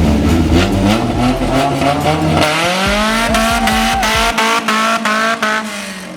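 Car engine revving hard and holding at high revs, with tyre squeal, as the car slides through a drift.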